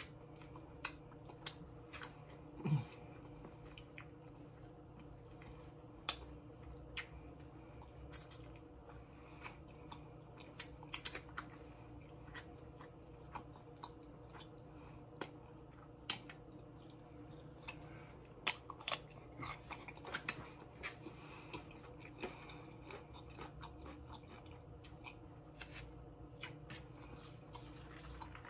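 Close-up mouth sounds of a person eating baby back ribs: irregular wet smacks, bites and chewing clicks, some sharper than others, over a faint steady hum.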